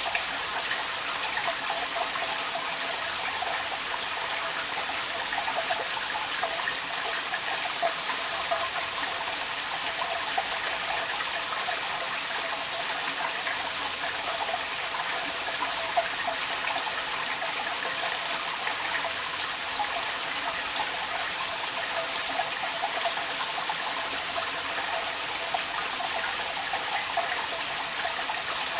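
Rain falling with water pouring and splashing out of a downpipe: a steady hiss with fine, irregular spattering.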